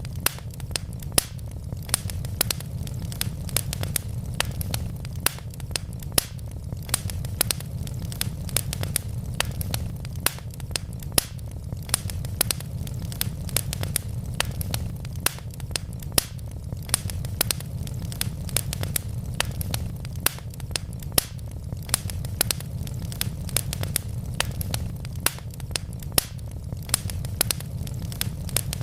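Wood logs burning in a fireplace, crackling steadily with many sharp pops and snaps every second over a low rumble of the flames.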